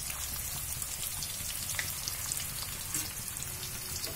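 Stuffed bitter gourds (karela) shallow-frying in oil over a very low flame: a steady sizzle with scattered small crackles and pops.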